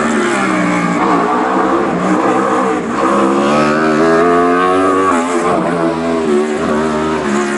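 Race car engine accelerating hard up a hillclimb course, the revs climbing and dropping sharply at each upshift, twice in quick succession.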